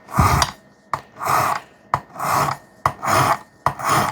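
A wet sharpening stone is drawn across the edge of a hard CPM-3V steel knife blade on a guided sharpening system. The rasping strokes come about once a second, each with a sharp click as the stroke begins.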